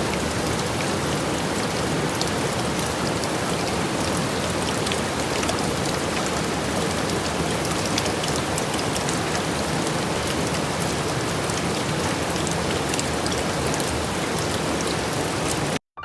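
Steady rain falling, with the ticks of single drops scattered through it; it cuts off suddenly near the end.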